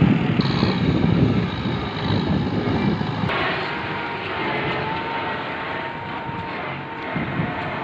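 Kubota M8540 tractor's diesel engine running under load, with a faint steady whine over it. The low rumble is heavier for the first three seconds, then eases.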